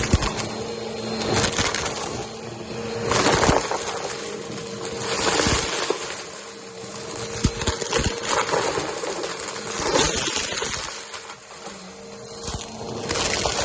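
Vacuum cleaner running over carpet and sucking up dry Fruity Pebbles cereal. The motor hum holds steady while the suction noise swells every couple of seconds with each pass, and cereal bits click and rattle as they are drawn up into the machine.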